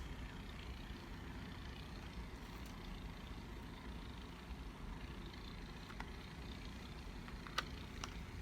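Small electric makeup-sponge washing machine's motor running steadily, spinning the sponge in water, with a few light clicks in the last few seconds.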